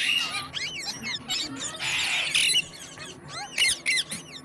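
Green parrot chirping and squawking in quick rising and falling whistled notes, with a harsher squawk about two seconds in.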